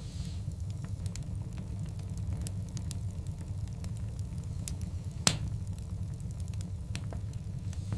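Large wood logs burning in a fireplace, with a steady low rumble and scattered sharp crackles, and one loud pop a little over five seconds in.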